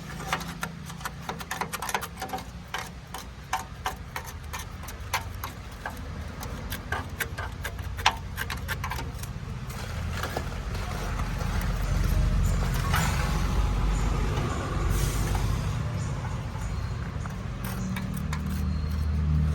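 Sharp clicks and light knocks over a low hum, then a low engine rumble that builds from about ten seconds in and stays steady.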